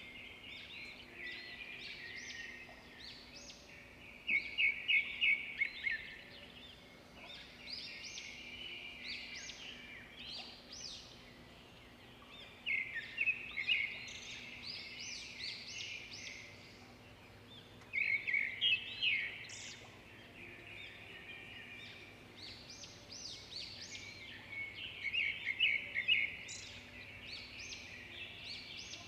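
A songbird singing: a steady run of high chirps, broken about every six or seven seconds by a louder, quick trill of repeated notes. A faint steady low hum lies underneath.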